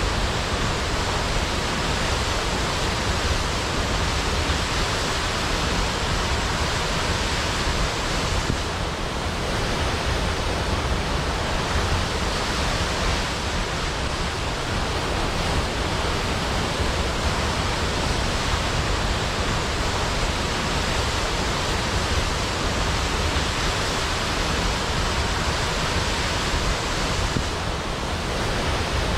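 Waterfall: water falling in a steady, even rush that spreads from deep rumble to high hiss, easing slightly twice for a moment.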